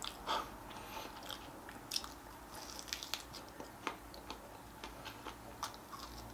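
Close-miked chewing and biting of salt-grilled pork back ribs, with irregular short clicks scattered through it.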